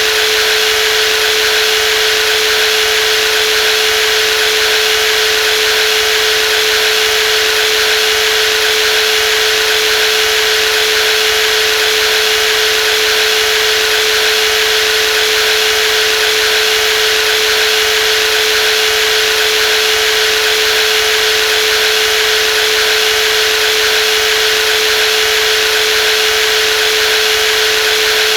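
Brushless jigsaw running steadily at constant speed, a continuous motor whine with one strong steady tone and a hiss of blade and gear noise above it, never changing.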